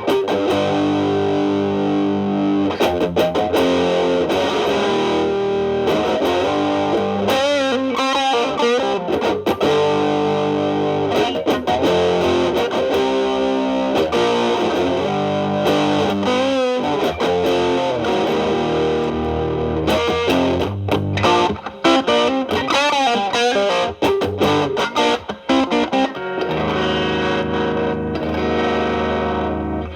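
Telecaster with alnico single-coil pickups through an MXR Distortion+ stacked with a Boss SD-1 into a Marshall Valvestate's clean channel, playing lead lines with bends and vibrato. The drive is partly cleaned up with the guitar's volume knob. A held chord rings near the end.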